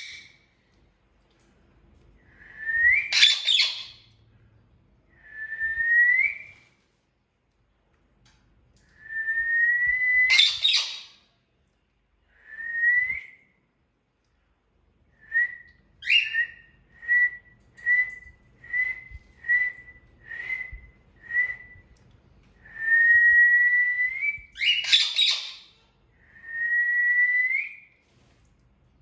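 Indian ringneck parrot whistling: a series of clear rising whistles, three of them breaking into a harsh squawk (about 3, 10 and 25 seconds in), with a run of about eight short whistled notes in the middle.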